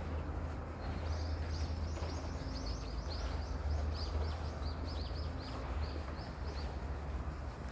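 A small bird chirping a quick run of short, high, falling notes, about three or four a second, which stops about a second before the end. Under it runs a steady low rumble.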